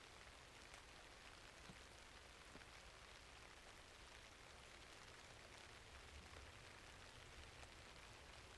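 Faint steady rainfall, with a few small, soft pops scattered through it.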